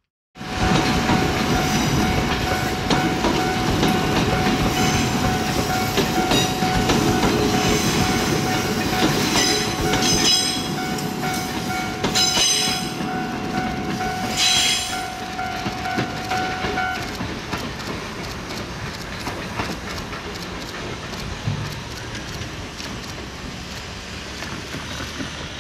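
A train running close by: a loud rumble with wheels clicking over rail joints, and a steady whine that cuts off about two-thirds of the way through before the sound eases.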